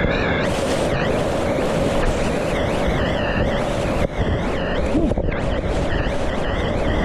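Steady rush of whitewater around a kayak on a river, with wind noise on the microphone.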